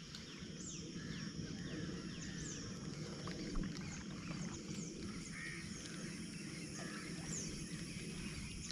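Birds calling, with short high descending notes repeating every couple of seconds and scattered fainter chirps, over a steady low rumble.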